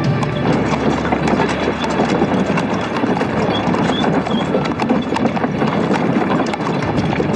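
Horse hooves clip-clopping, a fast, continuous run of hoof strikes.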